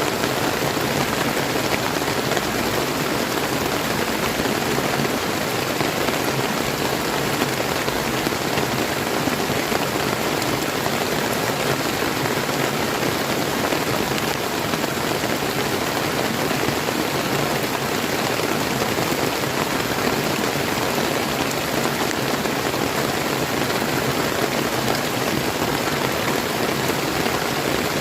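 Steady rain falling together with the even rush of a flowing river.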